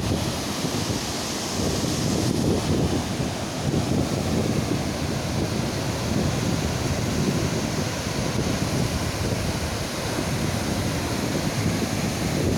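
Ocean surf washing steadily onto the beach, with wind buffeting the microphone in a low rumble.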